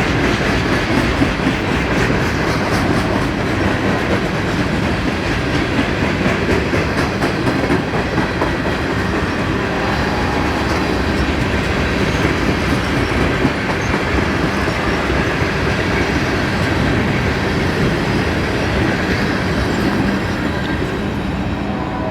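Freight train passing close by, its cars rolling steadily with wheels clacking over the rail joints.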